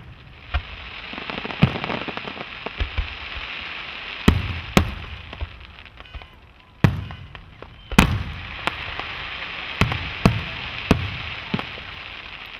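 Fireworks display: aerial shells bursting with sharp bangs at irregular intervals of one to two seconds, the loudest about four and eight seconds in, over a steady hiss.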